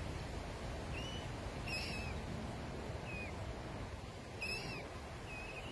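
A bird giving short, high, squeaky calls about five times, each under half a second and bending slightly in pitch, over a steady low background rumble.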